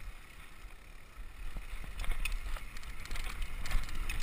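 Mountain bike rolling down a rocky trail: tyre noise and small rattles and clicks from the bike over a steady low rumble, quieter for the first second or so and then building.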